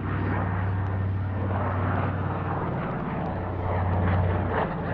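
PBY-5A Catalina flying past, its two Pratt & Whitney R-1830 Twin Wasp radial engines and propellers droning steadily. The drone swells slightly about four seconds in.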